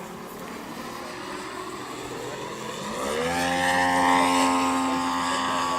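Propeller engine of a large scale model aerobatic plane (Zlin 50) running at low throttle, then revving up about three seconds in and holding a steady, louder, higher pitch.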